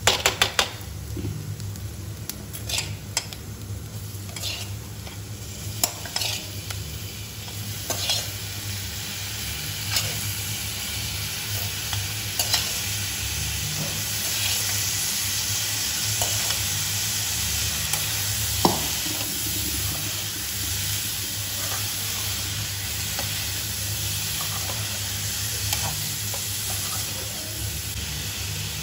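Onions and ground pepper frying in oil in an aluminium kadai, sizzling while a metal spatula stirs and scrapes the pan, with sharp clinks of the spatula against the metal in the first dozen seconds. About halfway through, with cauliflower florets now in the pan, the sizzle becomes a denser, steady hiss with only occasional scrapes.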